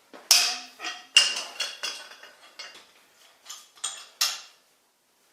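Steel pipe wrench with a jack-handle extension clanking and rattling as it is worked around a heated engine head stud to turn it out: about ten sharp, irregular metallic clanks that stop about four and a half seconds in.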